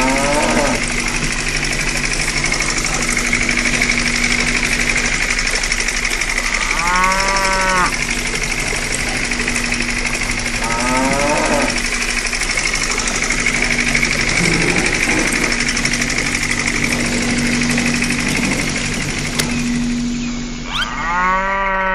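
Small motor driving a miniature belt-driven water pump, running with a steady mechanical hum and rattle. Cattle moo about five times over it.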